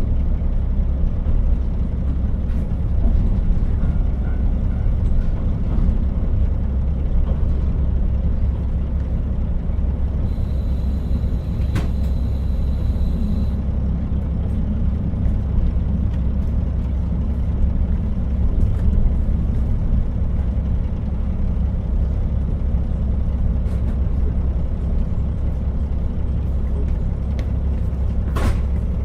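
Interior sound of a KiHa 40 diesel railcar: a steady low rumble of the diesel engine and running gear. About ten seconds in, a high thin tone sounds for about three seconds, and there are a few sharp clicks, one near the end.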